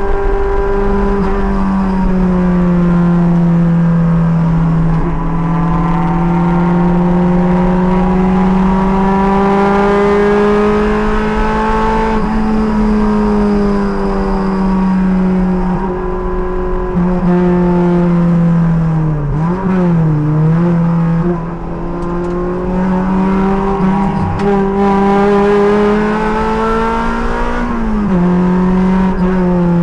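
Race car engine running hard on track, its pitch slowly climbing and falling with speed. About two-thirds through the pitch dips and wavers briefly, and near the end it drops suddenly, as at a gear change.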